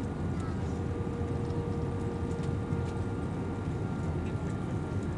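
Steady cabin noise of an Airbus A320-232 airliner: a constant low rumble of engine and airflow with a few thin, steady whining tones over it.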